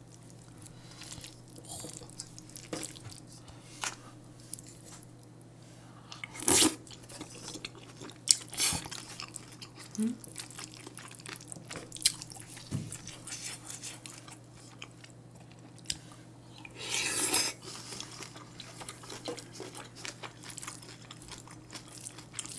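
Close-miked chewing of spoonfuls of bibimbap, with wet mouth sounds and many small clicks. Two louder noisy bursts stand out, a short one about six seconds in and a longer one of about a second near seventeen seconds.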